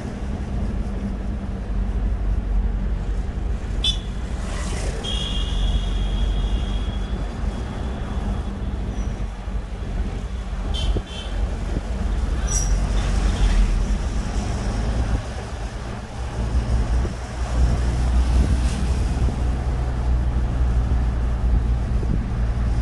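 Moving vehicle's engine and road noise heard from inside, a steady low drone that grows louder about three quarters of the way through. A few short high-pitched tones and clicks sound between about four and thirteen seconds.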